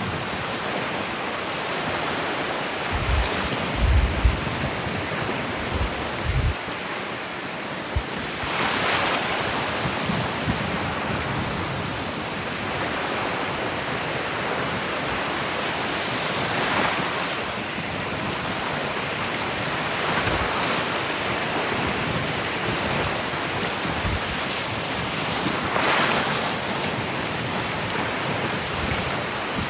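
Ocean surf washing onto a beach, a steady hiss with waves swelling in about every eight or nine seconds. Wind buffets the microphone in a few low thumps a few seconds in.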